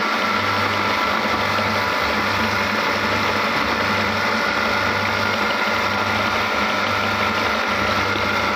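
Electric meat grinder running steadily with a constant motor hum, grinding green chilies; the sound cuts off abruptly at the end.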